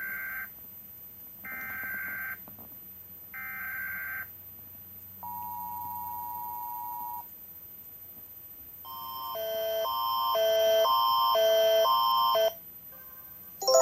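Emergency Alert System alarm: three short buzzing data bursts of the SAME header, then the steady two-tone attention signal for about two seconds. After a short pause a repeating synthesized chiming melody comes in and swells louder, then cuts off near the end.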